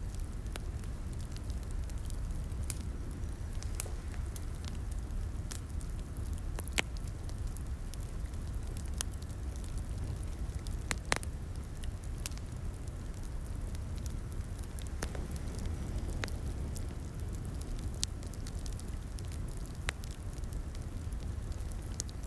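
Wood fire crackling in a fireplace: a steady low rumble of flames with frequent sharp pops and snaps at irregular moments, a few louder pops among them.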